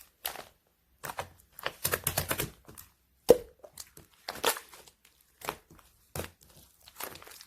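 Clear slime being squished and pressed by hand, giving irregular sticky clicks and small air-bubble pops; a quick run of clicks comes about two seconds in, and a single sharp pop just after three seconds is the loudest.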